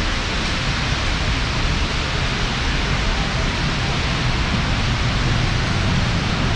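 Heavy monsoon rain pouring down in a steady, dense hiss, with a low rumble underneath.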